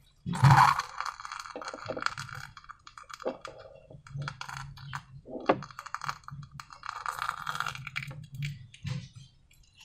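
Slime worked by hand: a run of irregular sticky clicks and crackles, with a louder squelch about half a second in.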